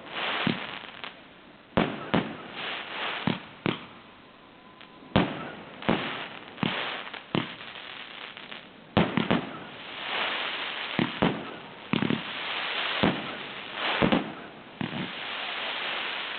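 Consumer fireworks display going off: a run of shell bursts, some single and some in quick clusters, each followed by hissing, crackling stars, with a long stretch of dense crackle in the second half.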